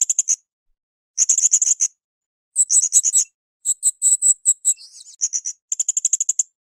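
Srindit, a hanging parrot, giving rapid high-pitched chattering trills in short bursts of under a second each, about six of them, separated by brief silences.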